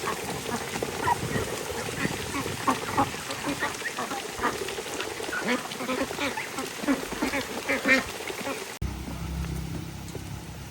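A flock of birds calling, many short overlapping calls. About nine seconds in it cuts off abruptly, and a low steady rumble follows.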